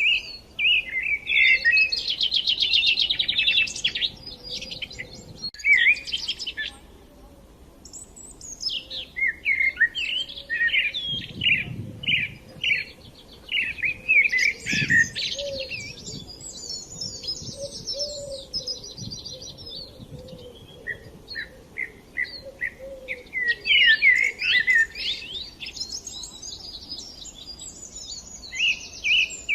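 Several small songbirds chirping and singing at once, with rapid trills and short whistled notes overlapping, pausing briefly about a quarter of the way in before picking up again.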